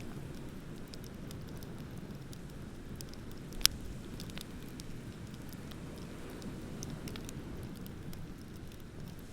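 Beach bonfire crackling, with scattered small pops and one loud sharp pop about three and a half seconds in, over a steady low rush of ocean surf.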